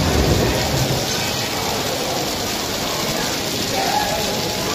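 Heavy rain falling steadily on wet stone paving: a dense, even hiss.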